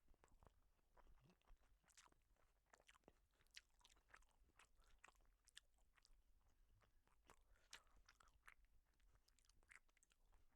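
Very faint chewing of noodles: scattered soft, wet mouth clicks, a few every second.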